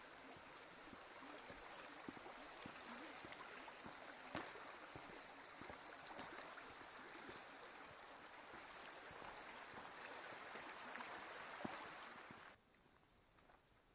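Faint, steady rush of flowing water, with a few soft clicks of footsteps; the rushing cuts off suddenly near the end.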